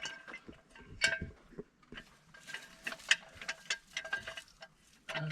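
Scattered light metallic clicks and clinks of a steel jack stand being handled and set in place under the car.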